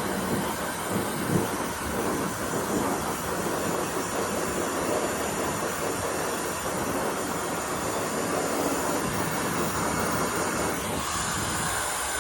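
Hand-held hair dryer blowing steadily, a loud even rush of air with a faint high whine, then cutting off suddenly.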